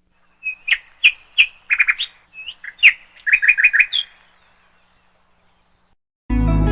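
A bird chirping: a string of short, sharp chirps, some in quick runs of three or four, that stop about four seconds in. Music comes in just before the end.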